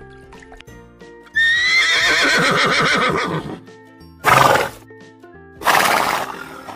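A horse whinnying: one long neigh that starts high and falls away in a shaky, quavering run, followed by two short noisy bursts, over steady background music.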